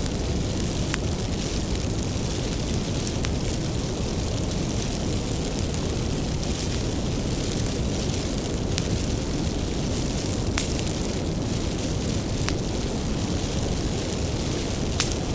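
Wood fire burning with a steady low roar and occasional sharp crackles and pops, a few seconds apart, the loudest pops about ten seconds in and near the end.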